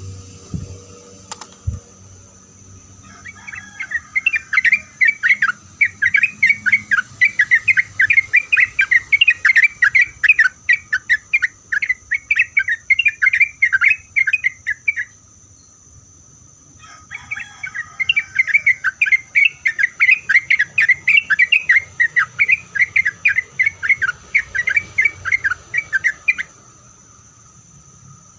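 A sooty-headed bulbul singing long, fast strings of repeated chattering notes in two bouts of about ten seconds each, with a short pause between them.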